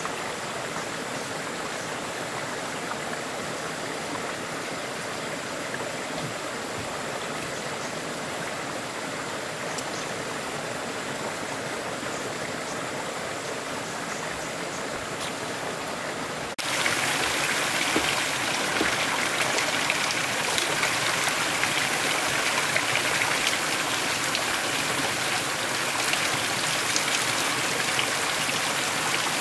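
Steady noise of rain and running water. A little past halfway it cuts suddenly to louder, brighter rain with many fine drop hits.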